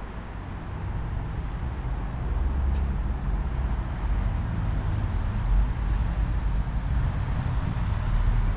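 Toyota Hilux Arctic Truck running steadily: a low engine rumble under an even hiss of road or wind noise, growing a little louder after the first second.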